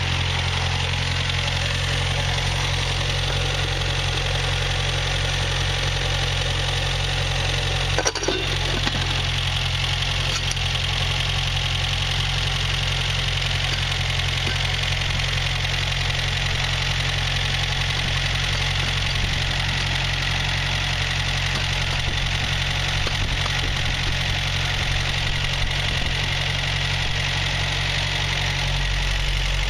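A 1965 Datsun PL320 pickup's old, worn four-cylinder engine idling steadily. There is a single sharp clank about eight seconds in.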